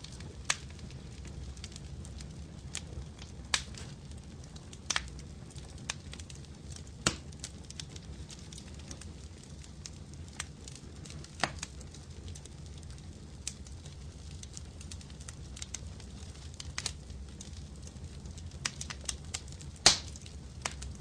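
Fire in a fireplace crackling: a steady low rumble with irregular sharp pops every second or two, the loudest pop near the end.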